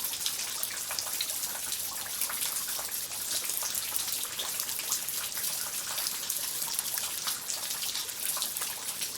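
Steady rain falling and dripping: a dense patter of small drops over an even hiss.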